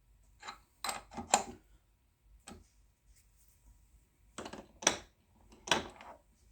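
Milling machine vise handle being worked in short spurts to press a bushing into a steel part. It gives a few separate groups of metallic clicks and creaks, the loudest about five seconds in.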